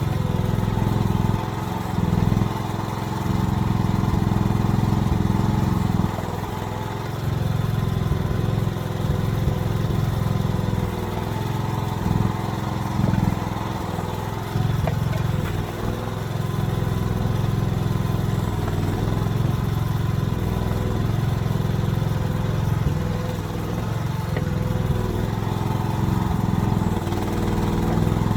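AGT mini excavator's small engine running steadily under varying load, its sound swelling and dipping every few seconds as the machine works.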